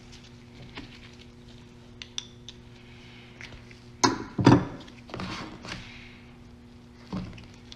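Brake caliper parts being handled on a workbench: a few light clicks, then a cluster of knocks and clatters about four seconds in, some rattling after it and one more knock near the end.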